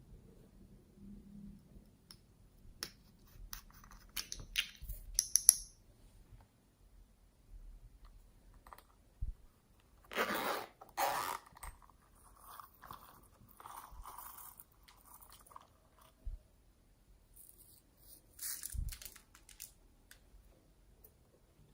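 Slime being handled and squeezed: irregular sticky clicks, crackles and squishes in clusters, with a louder crackling stretch about halfway through.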